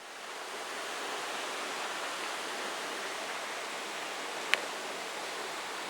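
Waterfall rushing steadily, fading in at the start, with one sharp click about four and a half seconds in.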